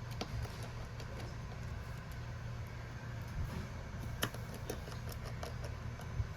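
Scattered light clicks and taps of small tools and parts on a phone under repair, the sharpest a little after four seconds in, over a steady low hum.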